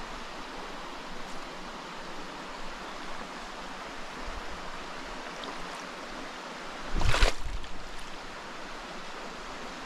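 Small mountain stream running, a steady rush of water. A brief loud bump comes about seven seconds in.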